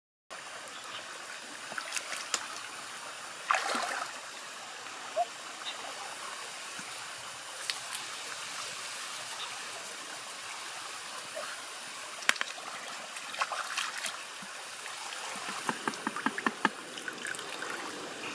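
Water trickling and flowing steadily, like a shallow stream. Scattered sharp clicks and small splashes sit on top of it, the loudest a brief burst about three and a half seconds in.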